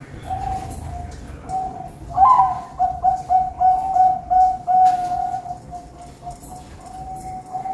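Zebra dove (perkutut) cooing: a string of repeated coo notes, louder from about two seconds in with a rising note and a quick run of short coos.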